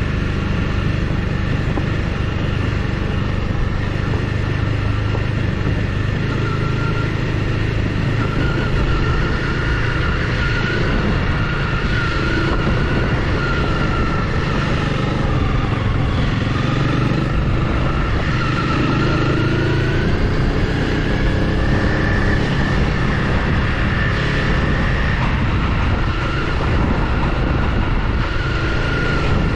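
Honda CRF300L Rally's single-cylinder engine running steadily as the motorcycle rides at low speed, with a higher tone that wavers slightly over the engine's rumble.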